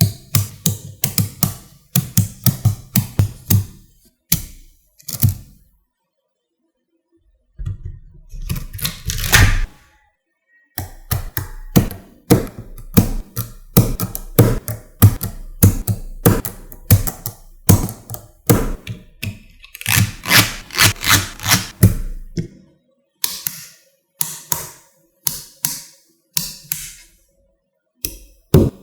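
Small magnetic balls clicking and snapping together in quick runs of sharp clicks, with a pause of a couple of seconds partway through.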